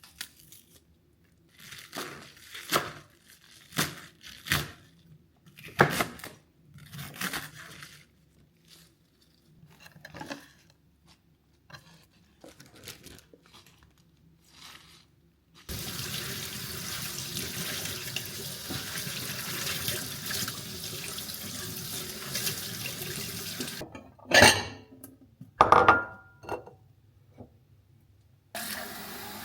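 Light knocks and clicks of kitchen handling for about fifteen seconds, then a kitchen tap running into a sink for about eight seconds. Two loud clatters follow, and the tap runs again near the end.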